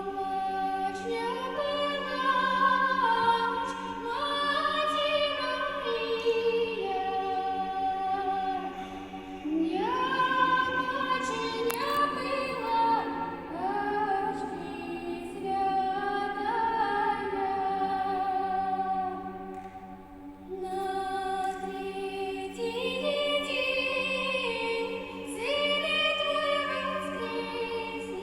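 Choir singing a cappella: a low drone is held steadily beneath several voices moving through the melody, with a short dip between phrases about twenty seconds in.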